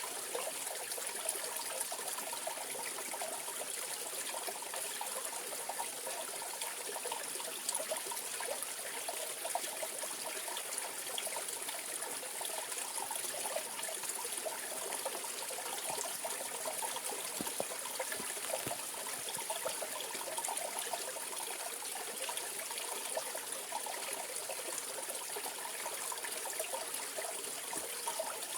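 Mountain stream flowing over rocks: a steady, even rush of water with fine trickling and splashing detail.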